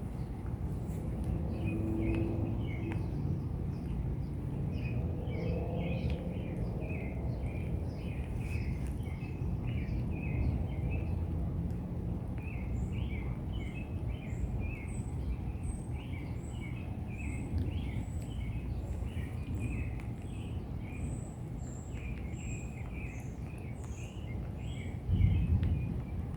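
Steady low outdoor rumble of a thunderstorm, with birds chirping over and over. Near the end comes a brief, louder low rumble.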